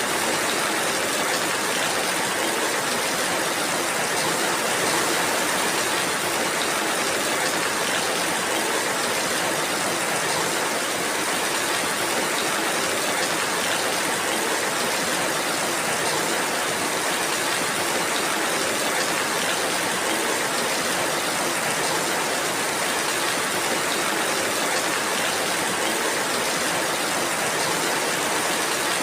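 Steady rainfall: an even, constant hiss of rain with no single drops, thunder or changes standing out.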